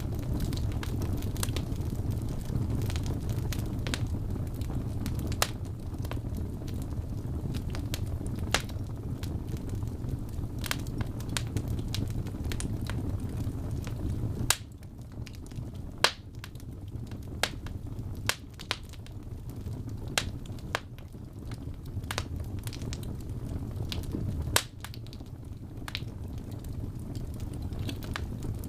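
Wood fire in a fireplace crackling: scattered sharp pops and snaps over a low, steady rumble of flame. The rumble drops away for about ten seconds midway, then returns.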